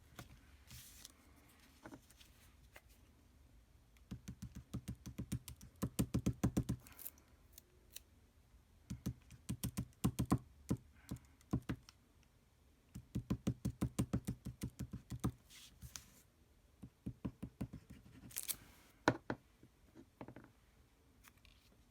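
Several runs of rapid, light clicking, each lasting one to three seconds, with quiet gaps and a few single clicks between, from craft supplies being worked by hand on a tabletop.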